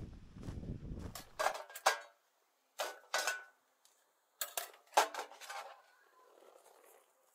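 Light clinks and clatters of camp cookware being handled, in several short clusters. Before them, a low rumbling noise cuts off abruptly about a second and a half in.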